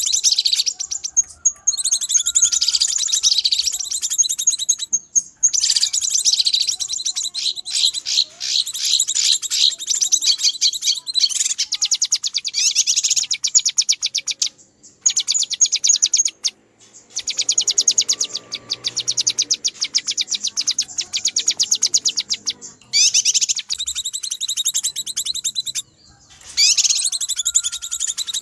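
Cucak kinoi bulbul lure recording: loud, rapid, high chattering calls in long fast runs of notes, broken by short pauses. These are the agitated 'ribut' calls used to draw in wild kinoi.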